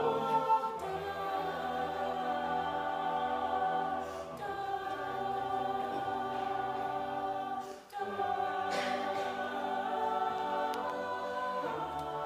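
All-male a cappella group singing sustained wordless chords with a bass line beneath. The chords change about every four seconds.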